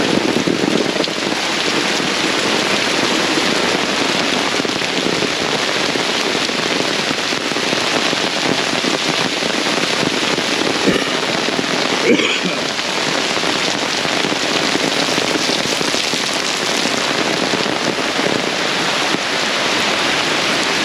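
Heavy downpour: a dense, steady hiss of rain pouring down on the surfaces around, with one short louder sound about twelve seconds in.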